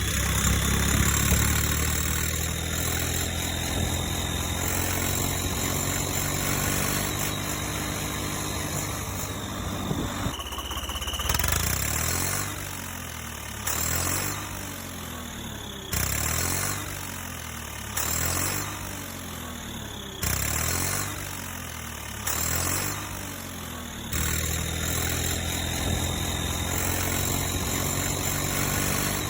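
A tractor engine runs steadily, then is revved in short bursts about every two seconds for several seconds, then settles back to a steady run.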